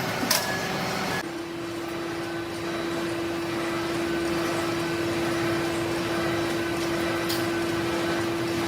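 A machine tool running steadily, with a steady hum that sets in about a second in, and a sharp click near the start and another near the end.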